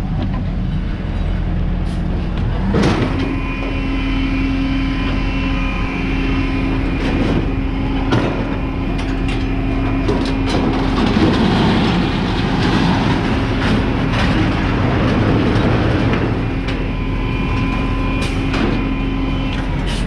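Heavy machinery running with a steady whine that comes in about three seconds in and stops near the end, over scattered clanks of metal.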